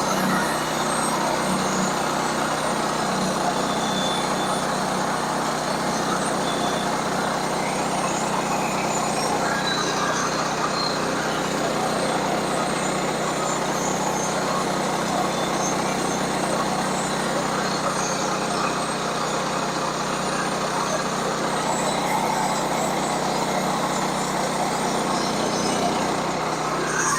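Engine-driven sawmill running steadily under load as its blade cuts through a log.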